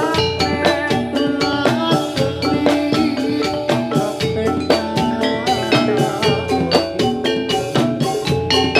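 Gamelan music for a jathilan dance: many struck, ringing metal mallet instruments playing rapid, dense notes over drumming.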